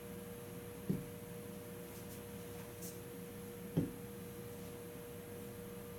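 Steady electrical hum holding one tone, with two short soft thuds about three seconds apart.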